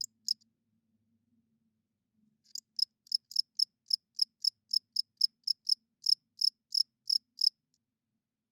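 Cricket chirping: two chirps right at the start, then after a pause of about two seconds a steady run of short, high-pitched chirps, about four a second, that stops about a second before the end.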